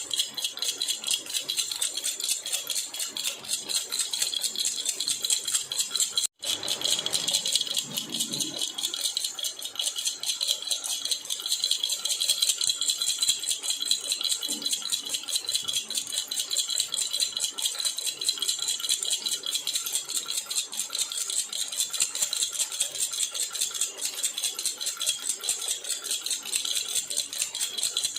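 Baby rattle (jhunjhuna) shaken continuously, a rapid, even jingling rattle, with a split-second break about six seconds in.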